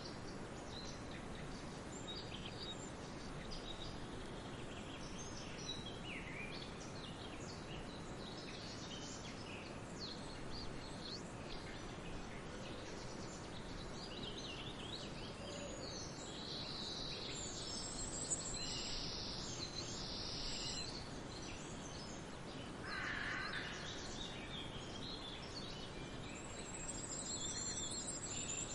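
Forest ambience: several birds singing and calling, with short chirps and high trills, over a steady rushing background. A lower call stands out about two-thirds of the way through.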